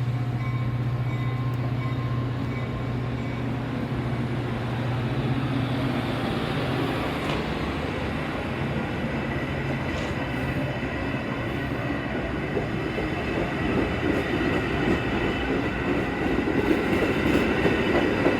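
Metra commuter train rolling past close by on the rails: a continuous loud rumble of wheels on track, with a low steady hum for the first several seconds and a thin high wheel screech that grows stronger in the second half.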